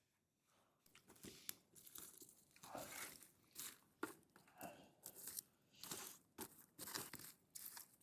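Boots crunching on dry ground and ash, an irregular run of steps or stomps about twice a second.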